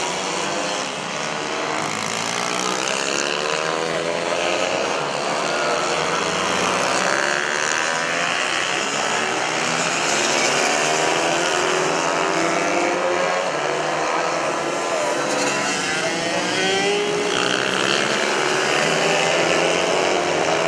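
Several mini bike engines racing together, each revving up and falling back as riders accelerate and ease off. Their pitches overlap and rise and fall continuously.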